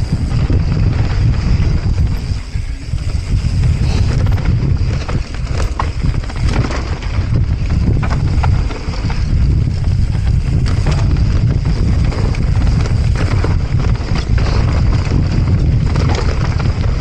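Wind buffeting the microphone during a fast mountain bike descent, with tyres on dirt trail and scattered sharp knocks and rattles of the bike over rough ground.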